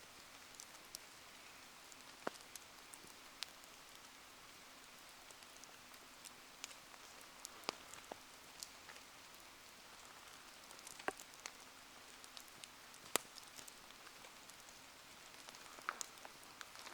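Rain falling steadily, a soft even hiss broken by scattered sharp ticks and pops, the loudest about two-thirds of the way through.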